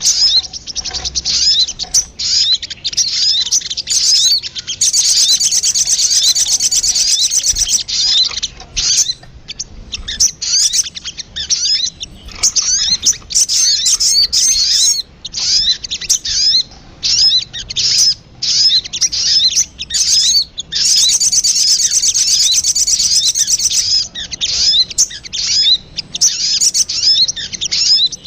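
Recorded lure call of the sogon, a small songbird: rapid, high, chattering chirps with no pause, turning into denser trills twice, about a fifth of the way in and again past the middle.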